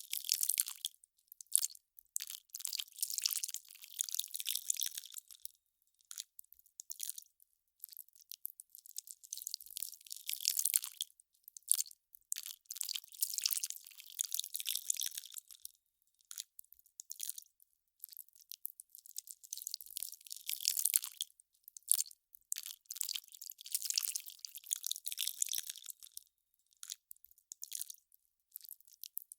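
Melting ice crackling: dense clusters of tiny high-pitched pops and ticks, each cluster a few seconds long, with short quiet gaps between.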